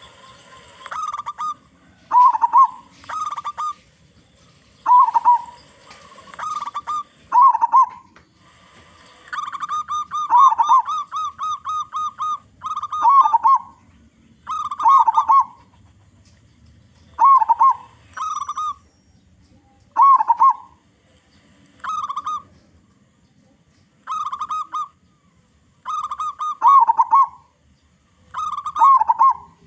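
Local zebra dove (perkutut) singing: short phrases of staccato cooing notes every second or two, with one longer run of rapid notes about ten seconds in.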